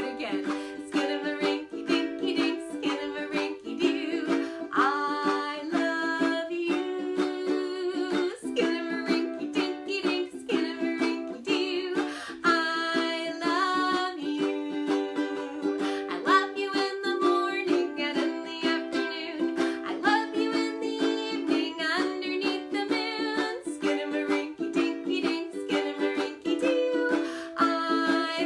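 Ukulele strummed in a steady rhythm with a voice singing a children's song over it.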